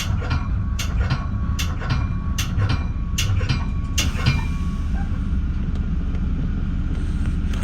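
Metra bi-level commuter car rolling along the track: a steady low rumble, with a run of sharp clicks about every half second for the first four seconds as the wheels pass over track joints, then a smooth rumble.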